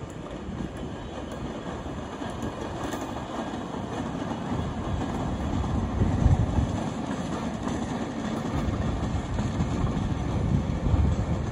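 Train passing slowly: the low rumble of a diesel locomotive and rolling wheels on the rails, growing gradually louder as it draws nearer.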